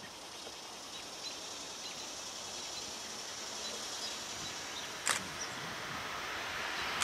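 An approaching Amtrak Acela Express high-speed trainset, still far off: a rushing noise that grows steadily louder. There is one sharp click about five seconds in.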